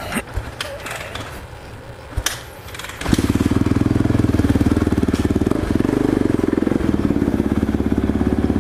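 A few clicks and knocks, then about three seconds in a supermoto motorcycle's engine starts and settles into a steady idle.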